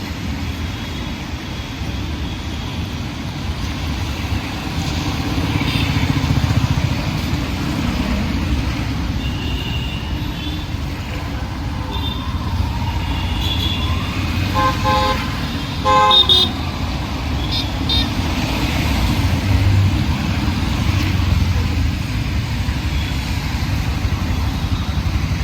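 Busy road traffic with engines running steadily, and a vehicle horn honking in short blasts about fifteen and sixteen seconds in, the loudest moment.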